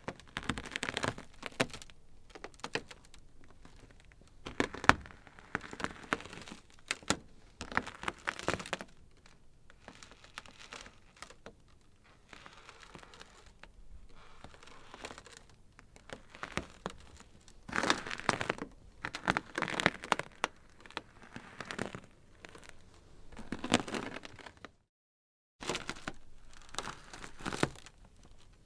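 Ice crackling: irregular clusters of sharp cracks and crackles with quieter spells between them, and a brief dead gap about three-quarters of the way through.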